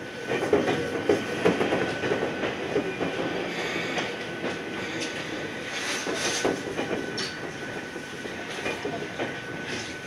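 Ohmi Railway electric train running along the line, heard from inside the car: a steady rumble of wheels on rail with scattered clicks from the track and a thin steady whine.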